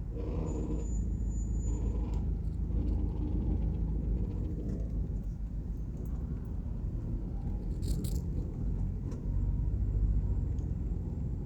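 A car driving along a highway, heard from inside the cabin: a steady low rumble of engine and tyres.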